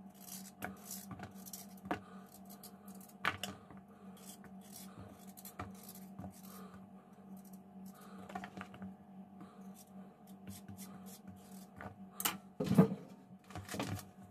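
Small household handling sounds, scattered light clicks and clatter like dishes or utensils being moved, with a louder knock a little before the end, over a steady low hum.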